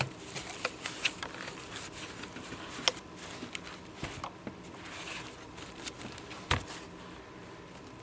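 Scattered light clicks and taps of plastic humidifier parts being handled, with two sharper knocks about three and six and a half seconds in.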